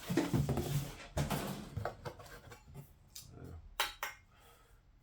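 Diesel heater kit parts being handled and unpacked: rustling and shuffling, then a few sharp knocks and clinks about three and four seconds in.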